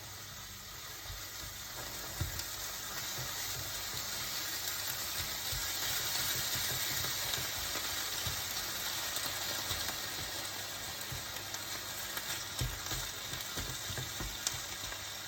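Food sizzling steadily in a frying pan, with scattered light knocks from stirring.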